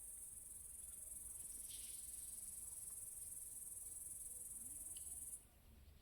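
High-pitched insect trill, a cricket or cicada, held steady and then cutting off suddenly about five seconds in.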